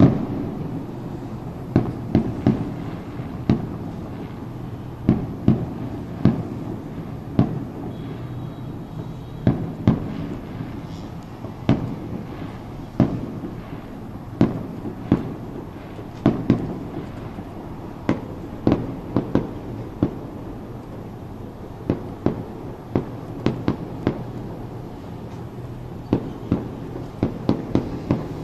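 Fireworks bursting: sharp bangs at irregular intervals, about one or two a second, over a steady low background hum.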